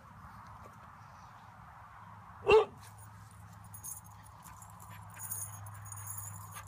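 A dog barks once, a single short sharp bark about two and a half seconds in.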